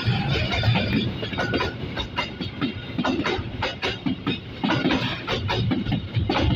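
A train passing close by: a low rumble of wheels and cars with a rapid, irregular clatter of wheels over the rail joints.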